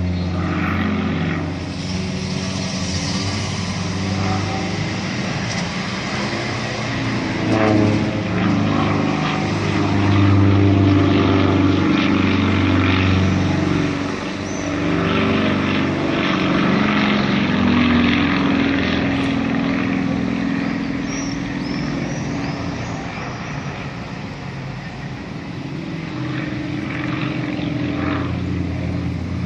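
Propeller-driven aerobatic light aircraft flying overhead, their engines droning steadily with the pitch slowly shifting as they manoeuvre; the sound swells louder near the middle and eases off toward the end.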